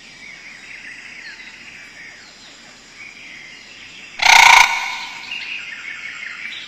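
Small birds chirping and twittering over a steady outdoor background, broken about four seconds in by one loud, sudden half-second cry or burst, after which the chirping goes on.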